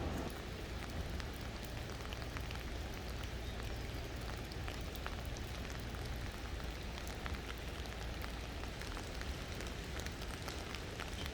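Water drops after spring rain falling and ticking irregularly onto wet surfaces over a steady soft hiss, with a low rumble underneath.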